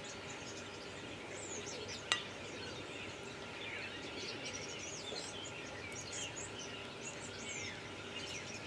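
Small birds chirping and twittering in the background, many short quick calls throughout, with one sharp clink about two seconds in from the spatula touching the ceramic plate.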